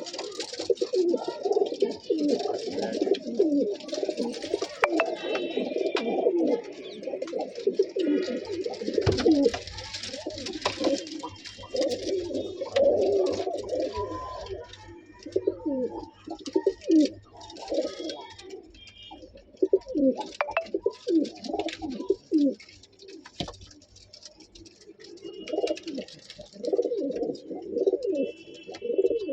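A group of highflyer pigeons cooing, many low coos overlapping without a break, with a few sharp clicks among them.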